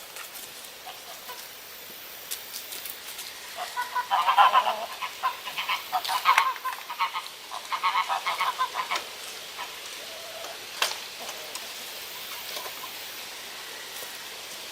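Poultry calling: a run of rapid, repeated calls starting a few seconds in and lasting about five seconds, followed by a single sharp click.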